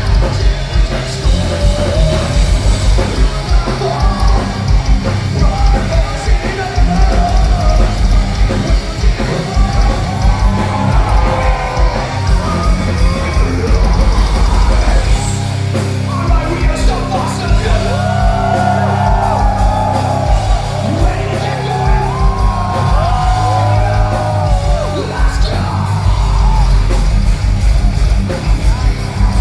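Heavy metal band playing live and loud in a hall: distorted guitars, bass and fast, pounding drums, with yelled vocals over the top.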